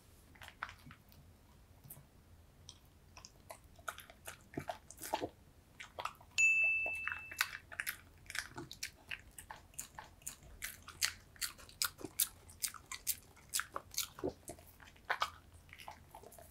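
A spaniel-mix dog chewing and crunching rose hips in a quick, irregular run of crisp bites and mouth clicks. About six and a half seconds in, one loud, short ringing chime lasts about a second.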